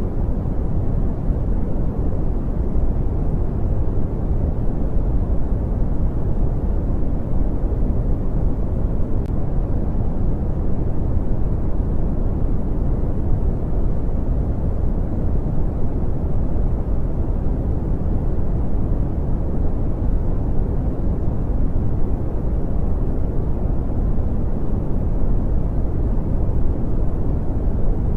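Brown noise: a steady, even, deep rushing hiss, strongest in the low rumble and rolling off toward the highs, with no changes or events.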